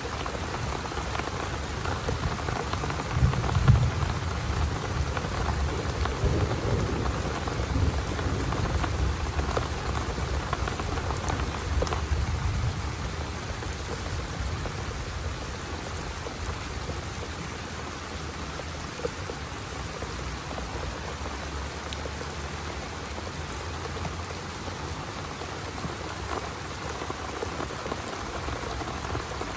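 Heavy rain falling steadily, with a low thunder rumble that swells a few seconds in and dies away by about halfway.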